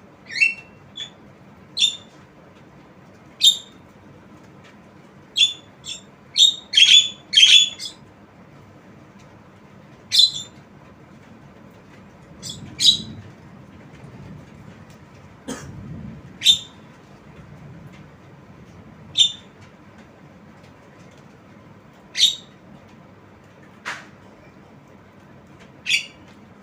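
Javan myna giving short, sharp calls one after another at irregular gaps of a second or two, with a quick run of several calls a quarter of the way in.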